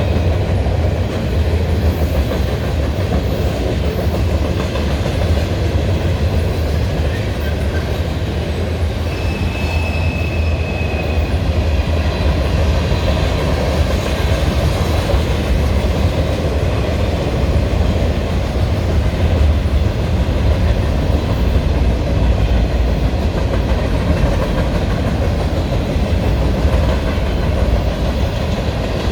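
Freight cars of a manifest train rolling past, a steady heavy rumble with the clickety-clack of wheels over rail joints. A brief high squeal from the wheels comes about ten seconds in.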